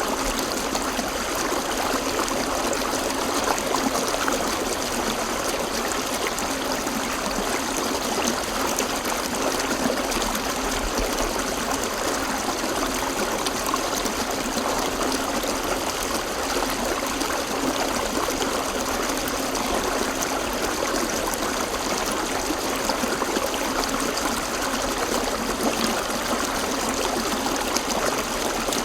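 River water flowing over rocks in a steady, unbroken rush with a trickling, babbling texture.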